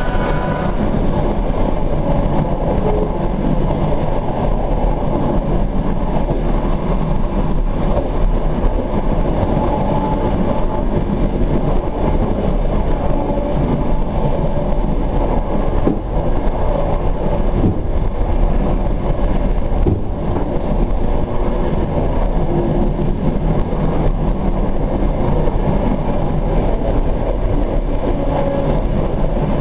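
Suburban passenger train running along a single-track line, heard from on board: a steady running noise from the wheels on the rails, strongest in the low range, with no breaks.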